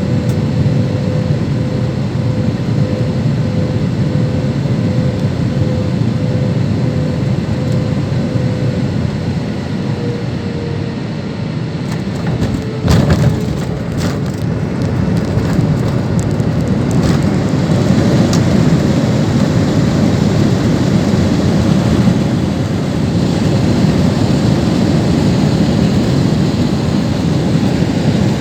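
Cabin noise of a Boeing airliner landing: a steady low rumble with a faint steady tone, a sharp thump and brief rattle about halfway through, then a louder rushing noise.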